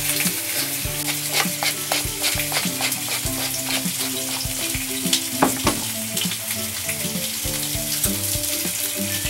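Spanish mackerel (sawara) fillets frying in a pan: a steady sizzle dotted with many short crackles, with light background music.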